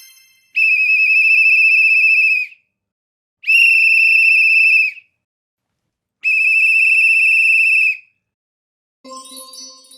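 Pea whistle blown in three long trilling blasts, as a traffic officer blows it, with short silences between. A brief, quieter, lower-pitched sound comes near the end.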